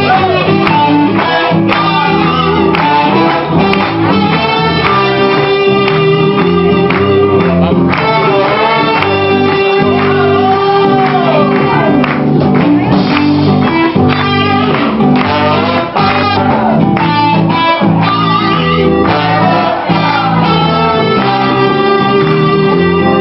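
A live band playing a song, loud and steady, with singing and guitar.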